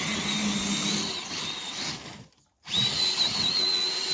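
Electric motor and drivetrain of an RC crawler truck whining under throttle; it cuts out about two seconds in, then whines again, wavering in pitch.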